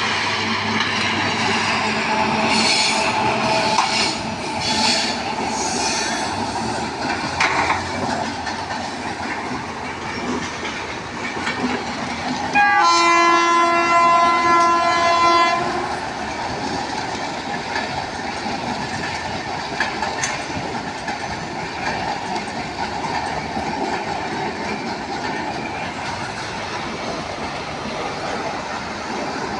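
Indian Railways train running past with wheels clattering over the rail joints, and a steady horn sounded for about three seconds near the middle.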